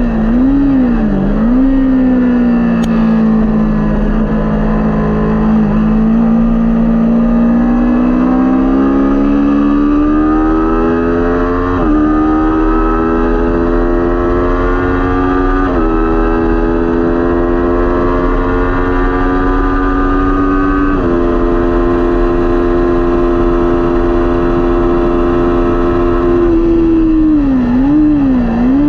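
Kawasaki Ninja 400 parallel-twin engine at race pace. Its revs dip and waver briefly at first, then climb with three sharp upshifts, each a sudden drop in pitch, hold steady, and dip and waver again near the end as it downshifts.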